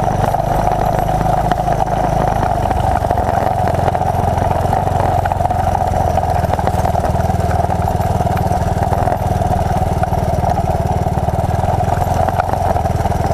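1981 Honda XL185's single-cylinder four-stroke engine running steadily.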